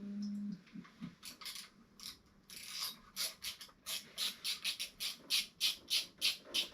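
Ratchet tool clicking steadily, about four clicks a second, as it loosens a radiator hose clip on the motorcycle's cooling system. A short low hum at the very start.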